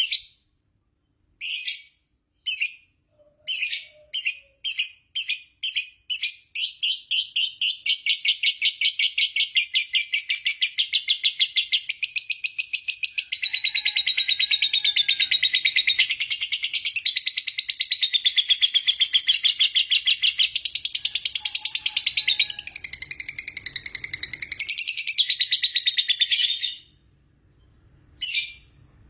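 Lovebird ngekek: a few separate shrill chirps that quicken into one long, fast, unbroken chatter of about twenty seconds, then stop abruptly near the end.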